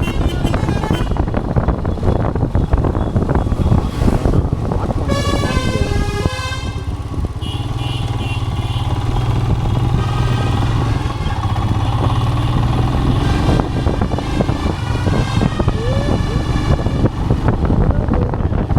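Royal Enfield Himalayan single-cylinder motorcycle riding with wind rushing over the microphone, then vehicle horns sounding from about five seconds in over a steady low engine hum.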